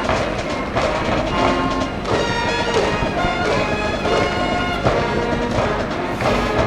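High-school brass band playing a baseball cheering song, in repeating phrases at a steady loud level.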